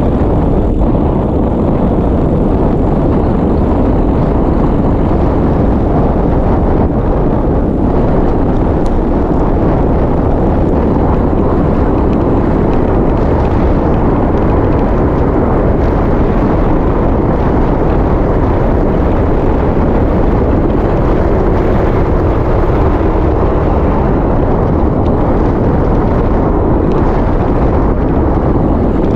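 Loud, steady wind rushing over a GoPro action camera's microphone as the bike moves at speed, a low, even rumble with no pauses.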